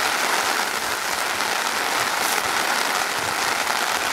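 Heavy rain beating steadily on a tarp overhead in a storm downpour, with runoff pouring off the tarp's sagging edge.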